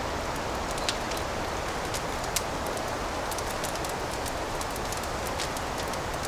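Wood fire crackling steadily in a fireplace, with scattered sharp pops, the loudest about two and a half seconds in.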